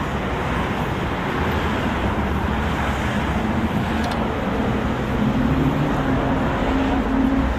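Street traffic noise: a steady wash of passing road vehicles, with one vehicle's engine hum growing louder from about five seconds in.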